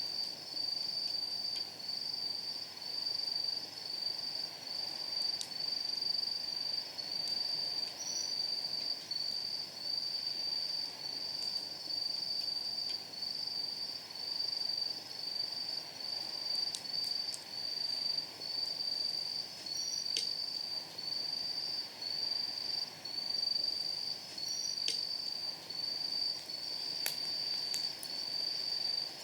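Night insects chirping in a steady run of short high pulses, about one and a half a second, with a few sharp pops from firewood burning in a steel fire pit.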